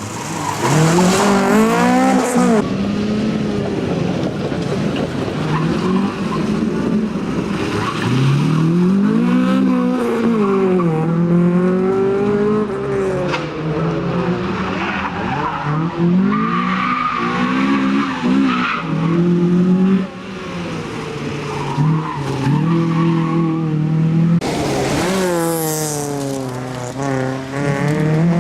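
Honda Civic rally car's engine driven hard, pitch climbing and falling again and again through gear changes, lifts and braking. A harsh hiss rises over the engine for a couple of seconds near the start and again near the end.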